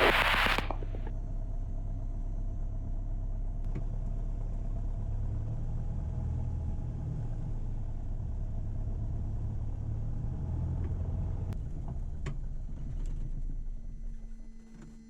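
Cessna 172's piston engine running at low power while taxiing, a steady low drone inside the cabin that fades away near the end.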